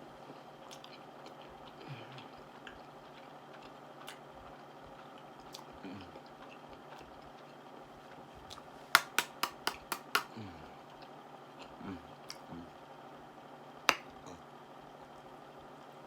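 A person eating with open-mouthed chewing and lip smacking: mostly quiet chewing, then a fast run of about six loud smacks a little past halfway, and one more sharp smack near the end.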